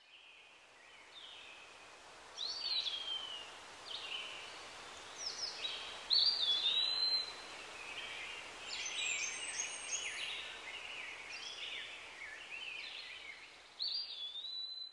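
Birdsong over a steady background hiss: many short whistled chirps and trills, rising and falling in pitch, several overlapping in the middle. It starts faint, grows louder, and cuts off at the end.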